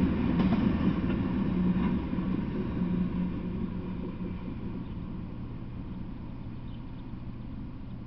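Freight train's last cars, covered hoppers, rolling past on the rails and fading as the train moves off over the first few seconds, leaving a steady low hum.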